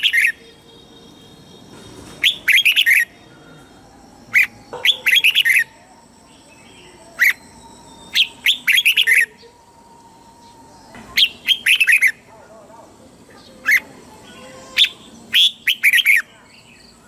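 Red-whiskered bulbul singing: short bursts of quick, sharp whistled notes, one phrase every two to three seconds.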